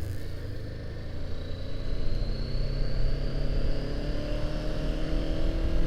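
Honda CBR500R's parallel-twin engine pulling in gear, its pitch slowly rising as the bike gathers speed, then falling away near the end. A low wind rumble sits under it.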